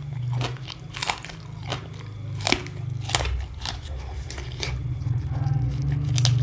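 A person biting and chewing crunchy food close to the microphone: a series of sharp crunches, one roughly every half second to second, over a steady low hum.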